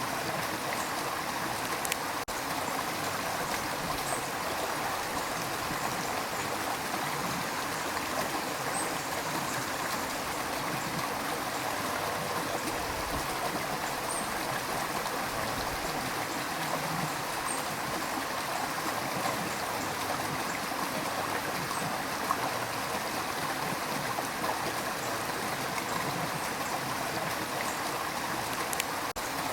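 River water rushing and gurgling over rocks, a steady even flow.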